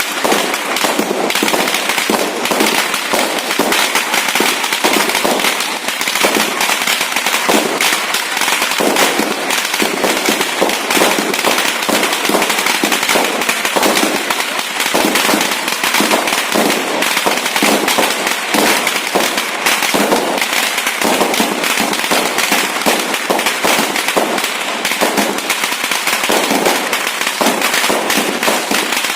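Fireworks going off without pause: a dense, continuous crackle of many small bangs at a steady level.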